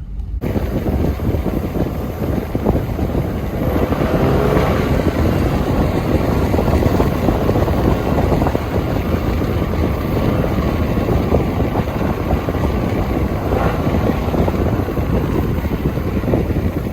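A moving vehicle's steady engine and road rumble, heavily buffeted by wind on the microphone, typical of filming from a car at about 30 km/h.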